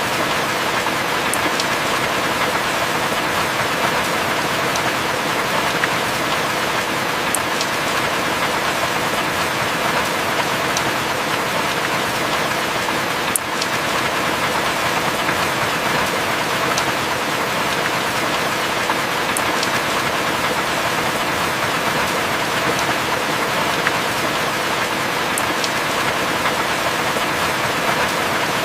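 Heavy rain falling steadily, a dense even hiss with scattered sharp drop ticks and one slightly stronger tick about halfway through.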